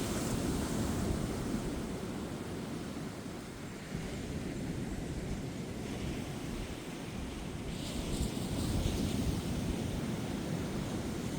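Ocean waves breaking and washing up a sandy beach, a steady surf rush with low wind noise on the microphone. A wave breaks with a hissing wash about eight seconds in.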